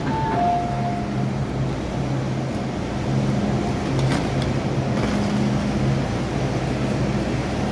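MTR M-Train carriage noise: a steady rumble with a low hum that swells and fades every second or so. A two-note falling chime ends about a second in.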